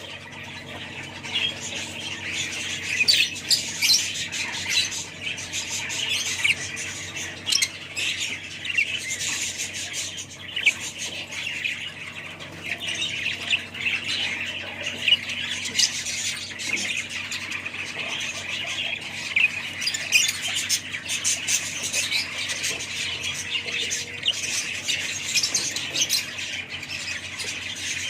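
A flock of small pet parrots chattering and squawking together: a dense, unbroken mix of shrill overlapping calls, with sharper squawks standing out every second or so.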